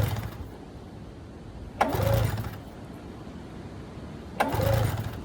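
Recoil pull-starter of a 1996 Arctic Cat ZRT 600 snowmobile being yanked twice, about two and a half seconds apart, spinning the two-stroke triple over briefly each time with the spark plugs out. This is cranking the engine to draw fuel up the lines to a freshly rebuilt fuel pump, not an attempt to start it.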